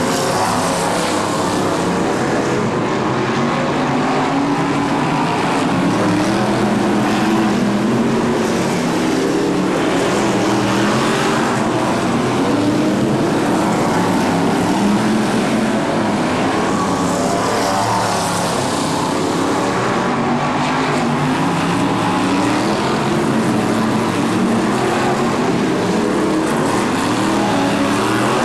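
Several BriscA F1 stock cars' V8 engines racing around a short oval, many overlapping engine notes rising and falling as the cars accelerate down the straights and ease off into the turns.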